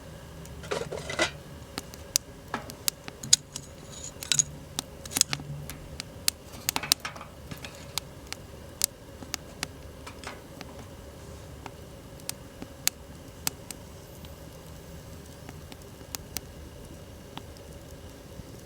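Wood fire crackling, with sharp irregular pops and snaps. A few brief rustling or handling noises come about a second in, around four seconds and around seven seconds.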